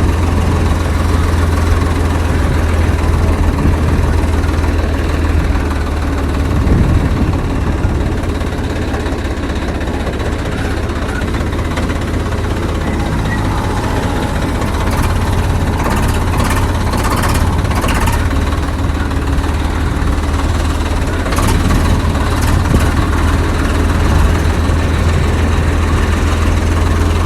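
Swaraj 855 FE tractor's three-cylinder diesel engine running with a steady low drone. Short clicks and rattles sound over it a little past halfway and again later.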